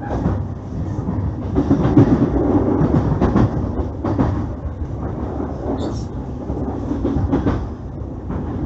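Running noise of a JR East E531 series electric multiple unit: wheels rumbling on the rails with scattered clicks over rail joints and points, as the train runs in toward its station stop.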